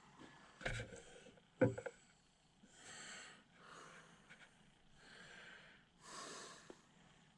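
A man breathing heavily close to the microphone while he works, with slow breaths coming about every second or two. Two sharp knocks of a tool or part against metal come about a second apart near the start.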